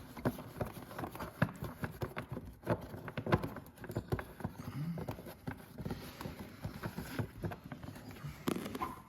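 Irregular clicks and knocks of hands and tools working a riding mower's ignition switch and its wiring loose to pull it out.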